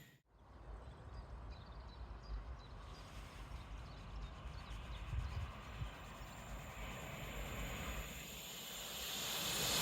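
Quiet station ambience with an uneven low rumble and a few faint high bird chirps. Near the end a train is heard approaching, growing steadily louder.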